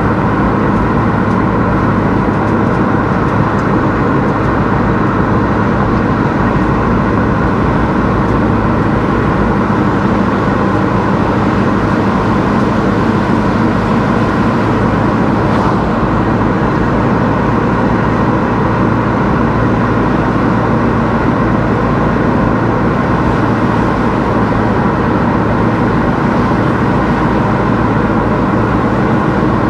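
A car driving at a steady pace: a continuous, even mix of engine hum and tyre and road noise.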